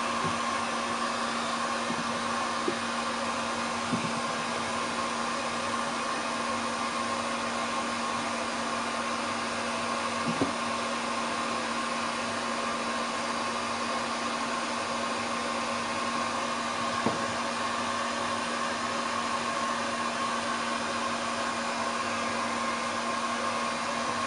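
Hand-held hair dryer blowing steadily with a constant whine, drying a cat's wet fur, with a few brief knocks along the way.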